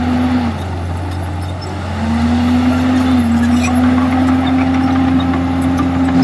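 Komatsu D51EX bulldozer's diesel engine working under load. Its pitch drops about half a second in and rises back at about two seconds as the load changes.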